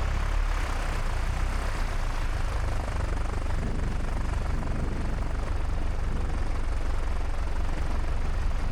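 Light single-engine piston airplane's engine running at low power as the plane rolls out on the runway just after landing, heard from inside the cockpit as a steady low drone with wind and airframe noise.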